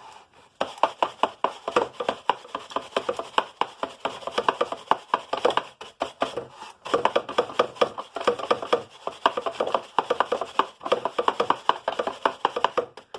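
Vacuum brush attachment scrubbing the plastic cyclone cone of a Fantom bagless vacuum, in rapid, repeated strokes to clear the caked dust. It starts about half a second in.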